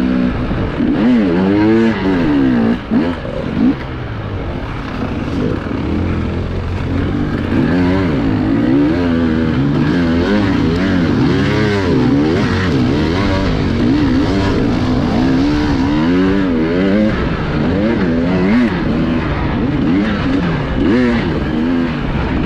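Off-road enduro motorcycle engine heard from the rider's onboard camera, its revs rising and falling constantly as the throttle is worked through rough terrain, over the rattle and noise of the bike riding.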